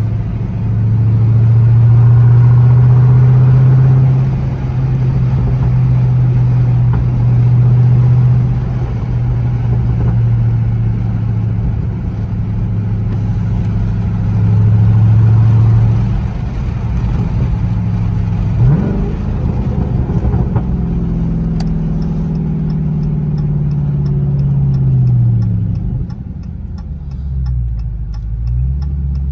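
Dodge Charger Scat Pack's 6.4-litre 392 HEMI V8 heard from inside the cabin, cruising with a steady low drone that swells and eases several times with the throttle, with one quick rise in revs about two-thirds through. It then falls in pitch as the car slows almost to a stop, while the turn signal ticks steadily over the last several seconds.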